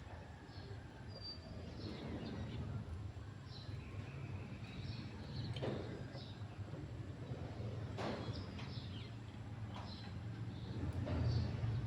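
Birds chirping in short scattered calls over a steady low rumble, with two sharp knocks in the middle.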